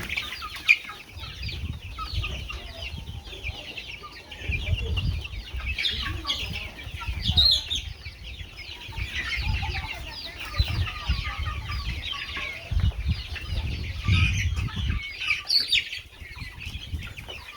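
A flock of chickens clucking and chirping together in many overlapping voices, with low rumbles of wind or handling noise on the microphone through the middle.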